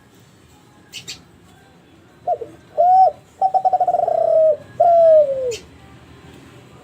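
A Kelantan-line spotted dove (derkuku/tekukur) cooing one full phrase: two quick short notes, a longer note, a rapid rolling note, and a long final note that falls in pitch. Two faint clicks come about a second in.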